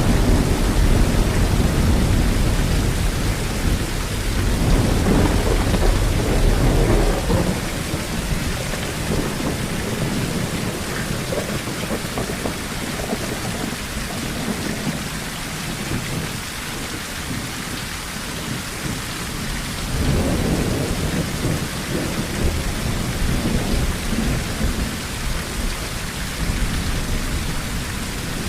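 Rain falling steadily on a tin roof as an even hiss, with thunder rumbling low at the start that fades out by about seven seconds in, and another rumble of thunder about twenty seconds in.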